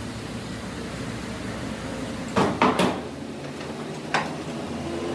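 Three quick metal knocks about two and a half seconds in, then one more about a second and a half later, over a steady hum.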